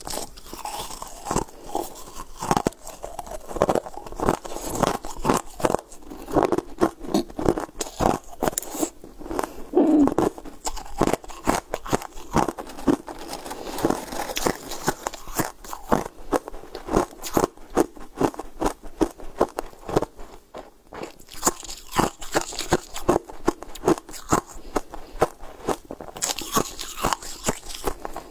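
A person crunching and chewing mouthfuls of hard blue ice-like chunks, with many sharp crunches in quick succession.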